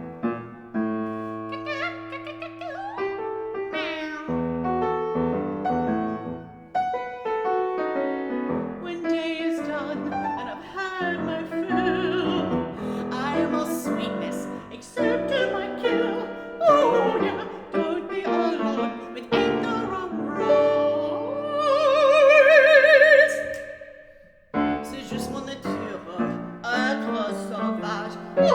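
Piano accompaniment under a mezzo-soprano singing wordless, sliding phrases. These build to a long, loud held high note with wide vibrato, which breaks off about 24 seconds in before the piano comes back.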